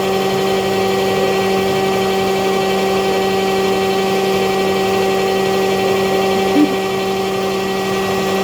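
Electric stand mixer running steadily at high speed, creaming cream cheese, peanut butter and salt into pie filling, with a steady motor hum. There is one brief knock about two-thirds through.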